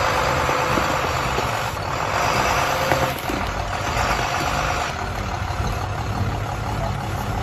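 Heavy diesel machinery running steadily, with a dense mechanical noise.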